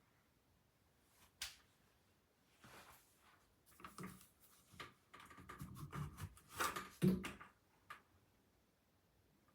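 Faint scattered clicks, knocks and rustles, busiest between about five and seven seconds in, with the loudest knock just after seven seconds.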